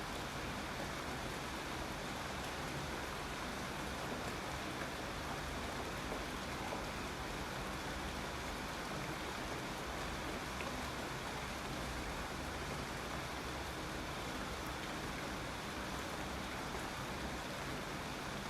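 Steady rainfall, an even hiss of rain on surfaces with no let-up or change in strength.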